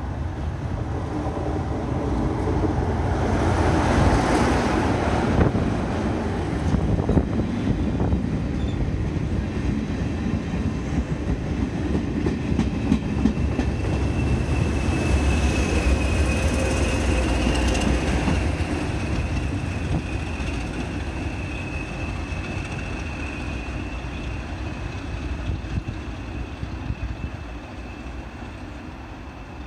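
Heritage train passing through a station behind a diesel locomotive: engine and wheel noise, loudest about four seconds in as the locomotive goes by, then the coaches clattering over the rail joints. From about fifteen seconds in a thin, high, steady wheel squeal joins as the train rounds the curve, and the sound slowly fades towards the end.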